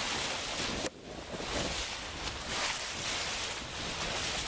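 Wind buffeting the microphone over the rush of sea water along a boat's hull, a steady rushing noise that drops away briefly about a second in.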